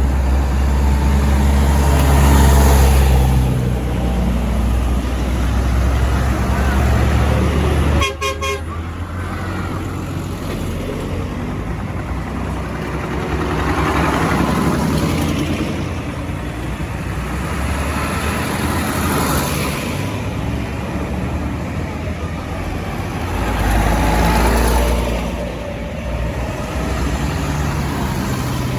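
Diesel engines of modern farm tractors rumbling past one after another in a road procession, swelling as each tractor goes by. Horns toot among the passing vehicles.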